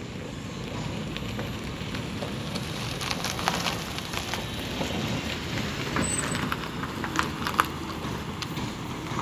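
A vehicle rumbling along a rough, wet dirt road, with scattered sharp clicks and knocks through the middle.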